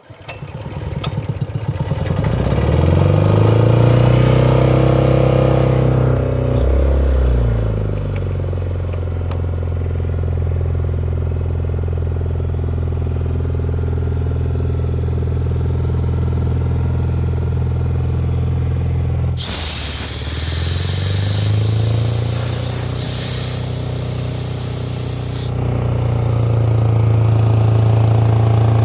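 Honda GX160 single-cylinder engine on a SEIWA SC-30GB engine air compressor starts and rises in pitch to speed over the first few seconds, then runs steadily. About two-thirds of the way through, compressed air hisses out loudly with a high whistle for about six seconds, and the engine dips and climbs back as it takes up the load.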